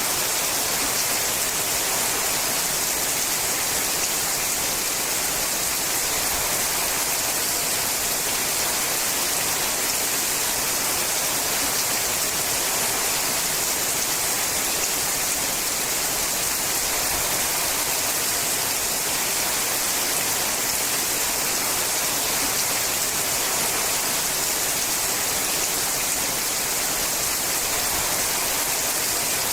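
Steady rain falling on a sheet-metal roof, a dense even patter without letup.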